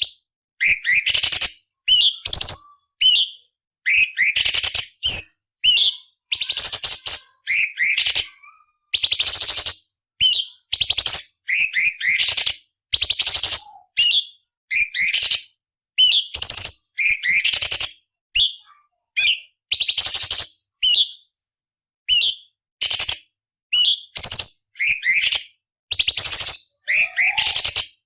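Orange-bellied leafbird (cucak cungkok) singing a rapid run of short phrases: whistled notes mixed with harsh, scratchy chattering, broken by brief pauses.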